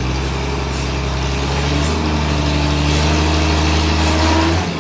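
A large engine running steadily under load, its pitch rising a little about two seconds in, then dipping sharply near the end.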